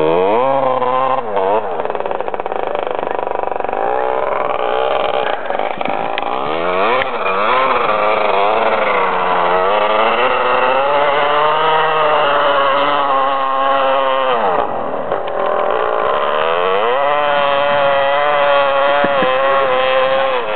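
Husqvarna 250 dirt bike engine being ridden hard, its pitch climbing and falling again and again as the throttle opens and closes through the gears, with a sudden drop in revs about two-thirds of the way through before it picks up again.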